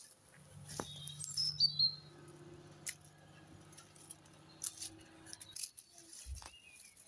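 Small birds giving short gliding chirps about a second in and again near the end, over a low steady hum that stops after about five seconds. A few sharp clicks come from the pruning of the hydrangea.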